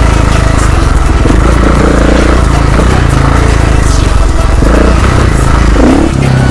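Dirt bike running steadily under way, its engine note carried with a lot of noise.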